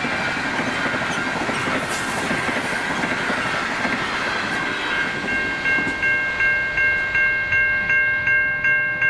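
The stainless-steel carriages of the Overland passenger train rolling over the level crossing, with a steady rush of wheel-on-rail noise. About five seconds in, as the train clears, a level crossing's Safetran Type 3 electronic bell is heard plainly, dinging at a steady rate of about three strikes a second.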